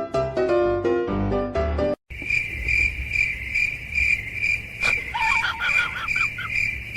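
Piano-like background music for the first two seconds, cut off abruptly. Then a cricket chirping steadily, about two chirps a second, with a few short wavering calls around the middle.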